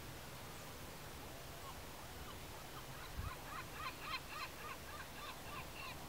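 A bird calling a quick run of short, repeated notes, about four a second, starting about three seconds in and lasting some two and a half seconds. A brief low thump comes just before the calls begin.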